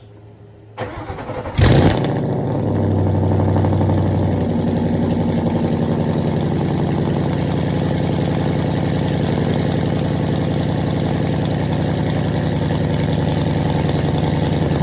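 A car engine is cranked about a second in, catches with a brief loud rev, then settles into a steady idle with an even rhythmic pulse. It is a start-up before warming the car up.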